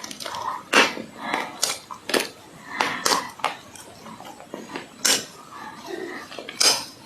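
Dry clay crunching in a series of sharp, irregular crunches, the loudest about a second in, with softer crumbling sounds between.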